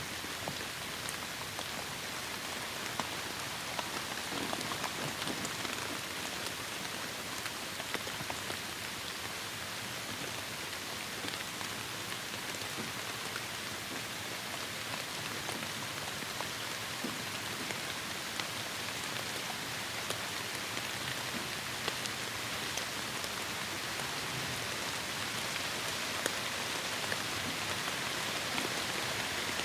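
Heavy rain falling steadily, with the patter of individual drops striking surfaces, getting slightly louder towards the end.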